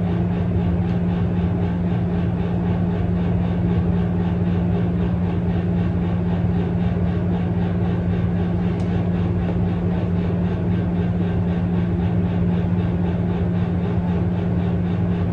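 Steady low mechanical hum with a constant low drone, unchanging throughout.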